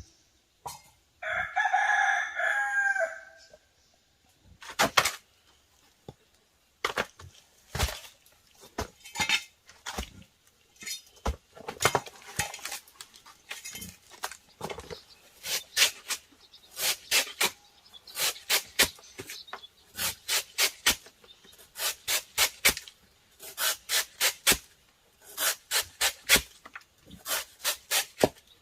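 A rooster crows once. It is followed by a long series of sharp knocks and scrapes, irregular at first and then coming in quick, fairly regular pairs.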